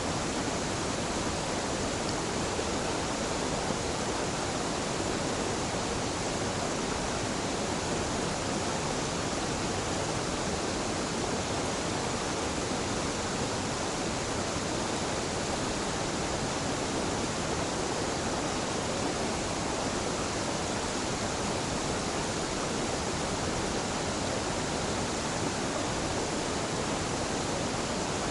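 Small mountain-river waterfall pouring steadily: a continuous, even rush of water with no change throughout.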